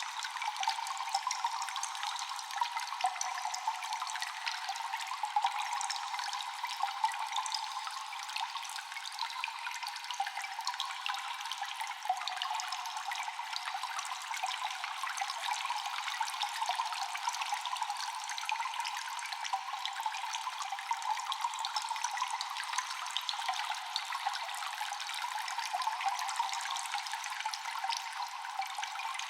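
Water dripping in a cave: many quick, echoing drops falling continually over a steady wash of trickling water, thin-sounding with no deep tones.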